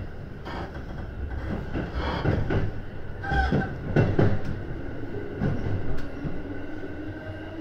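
Inside an electric commuter train accelerating out of a station: wheels knocking and clacking over points and rail joints over a steady rumble, with a motor hum that rises slightly in pitch near the end.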